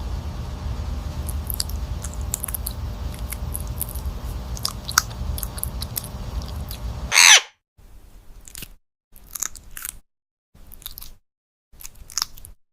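A parrot crunching and chewing on food, with a steady rough crunching and many small sharp clicks for about seven seconds. A short loud screech comes at about seven seconds, then only a few brief faint sounds with silences between them.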